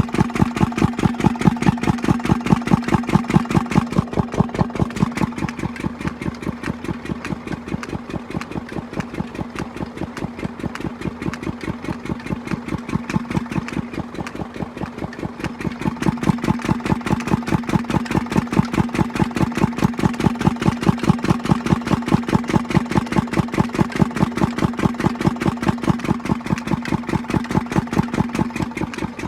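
Engine running a water pump, chugging steadily at idle with an even beat of about five strokes a second. It is slightly quieter from about five seconds in and picks up again after about sixteen seconds.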